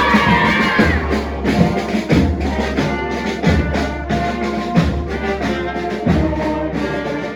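Marching band playing in a parade: brass carrying the tune over drums, with a low drum beat about once every second.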